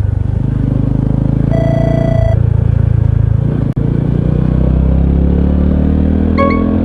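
Honda CT125 Hunter Cub's air-cooled single-cylinder engine running under way; about three and a half seconds in the sound breaks off for an instant, then the engine pitch climbs steadily as it accelerates. A short held tone sounds about a second and a half in, and a beep comes near the end.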